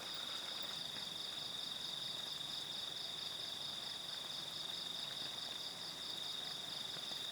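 Chorus of night insects: a steady high-pitched whine with a second, pulsing trill just above it.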